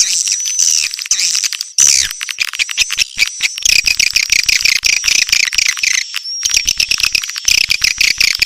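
Swiftlet calls played as a call sound (lure) for swiftlets: a dense, continuous high-pitched twittering of rapid chirps and clicks, with a thin steady whistle running through it.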